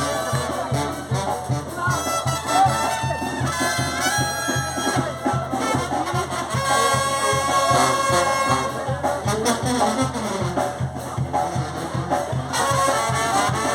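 Brass band music: trumpets and trombones playing held notes over a quick, steady low beat.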